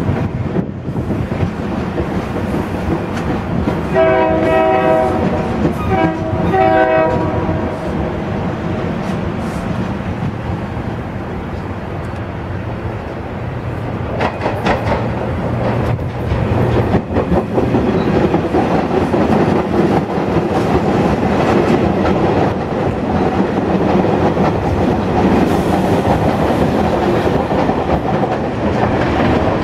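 Two blasts of a train horn about four and six seconds in, then a SEPTA Silverliner V electric multiple-unit train running past, its wheels clacking over the rail joints, louder from about halfway through.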